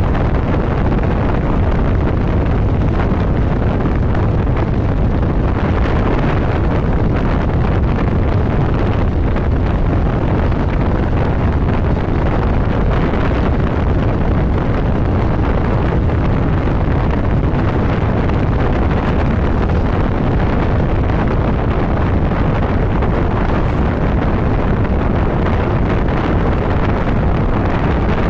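Steady wind rush on the microphone of a motorcycle riding at road speed, with the bike's running noise underneath.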